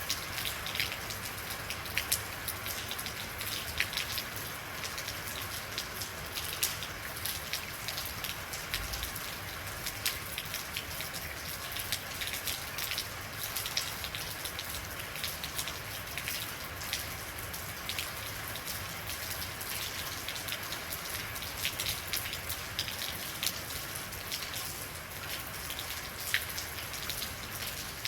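Steady rain: a constant hiss of rainfall with many separate drops striking a surface as sharp, irregular ticks.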